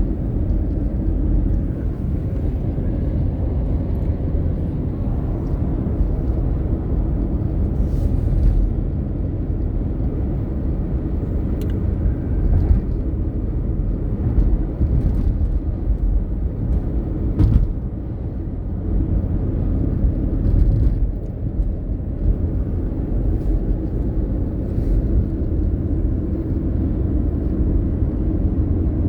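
Steady low rumble of a car on the move, with a few brief faint clicks.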